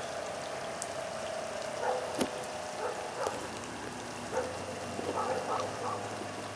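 Steady patter of rain during hurricane flooding, with a few short higher-pitched blips over it and a sharp click about two seconds in.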